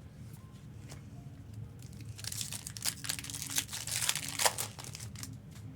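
Foil Pokémon booster pack wrapper crinkling as it is torn open and handled, starting about two seconds in and lasting about three seconds, with a few light clicks before it.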